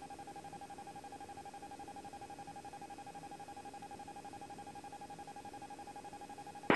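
Faint steady electronic tone with a light hiss on an air-band radio feed, heard in the gap between air-traffic-control transmissions.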